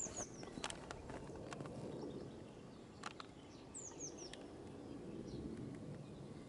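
Faint outdoor ambience with a few short, high, falling bird chirps: a couple near the start and a group of three about four seconds in, with scattered light clicks.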